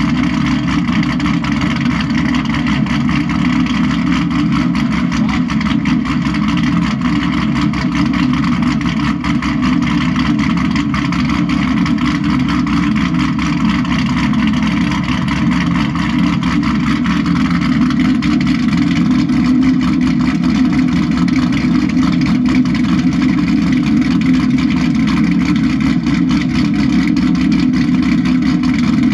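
2018 Camaro SS's 6.2-litre LT1 V8, fitted with a Texas Speed stage 3 cam and aftermarket headers, running steadily at idle; it gets slightly louder about halfway through.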